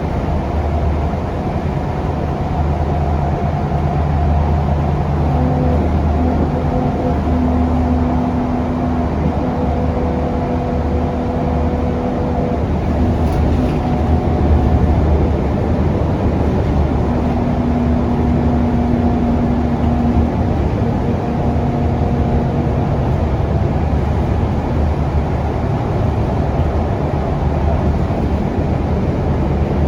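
Ride noise heard inside an articulated Scania K360UA city bus on the move: a steady low rumble from its Scania DC9 engine and the road, with steady tones that come and go every few seconds.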